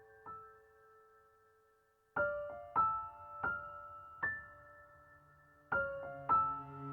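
Background music: soft solo piano playing slow, separate notes that ring out, with a short near-silent pause about a second in before the phrase resumes.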